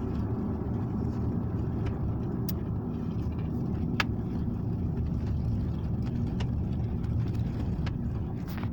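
Steady low rumble of a car driving, engine and road noise heard from inside the moving vehicle, with a few light clicks and a sharp tick about four seconds in.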